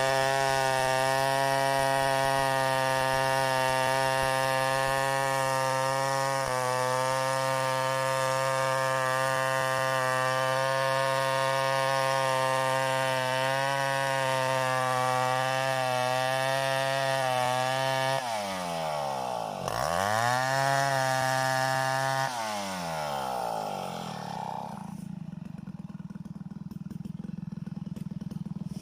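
A two-stroke chainsaw runs at a steady high speed for most of the clip. About two-thirds of the way through, its pitch dives steeply and swings back up within a few seconds. The sound then falls away to a quieter, lower rumble.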